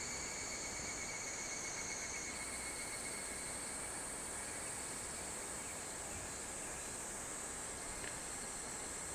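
Insects calling steadily in several overlapping high-pitched tones, one of them stopping about two seconds in, over a steady hiss of background noise.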